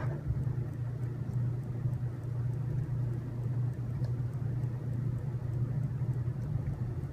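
Steady low hum, with a faint click at the very start and a faint tick about four seconds in.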